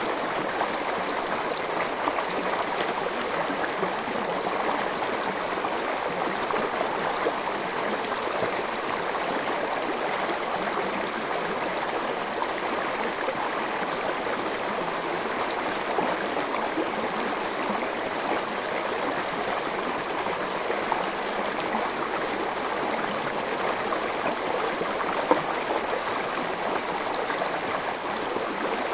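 A small forest stream flowing and babbling over rocks, a steady, even rush of water with light splashes.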